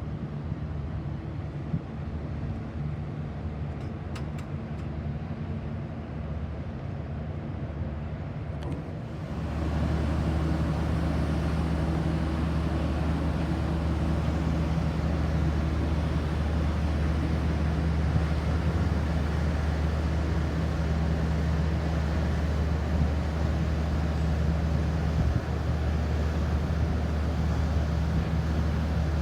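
Steady low drone of ship engines and machinery. About nine seconds in it grows louder, with a rushing hiss added over the hum.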